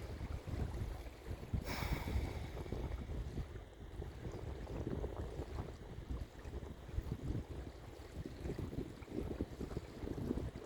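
Wind buffeting the microphone: an irregular low rumble that rises and falls with the gusts. There is a brief scratchy noise about two seconds in.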